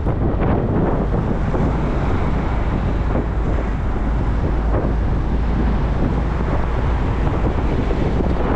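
Steady wind rushing over the microphone of a moving motorcycle, with road and engine noise beneath it.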